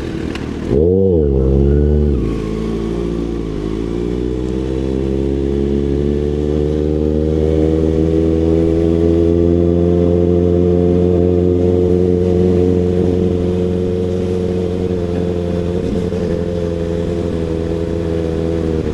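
Kawasaki ZX-6R inline-four through an SC Project CRT exhaust: a quick throttle blip about a second in and a smaller one a couple of seconds later, then a long steady engine note whose pitch creeps up slightly and eases back toward the end.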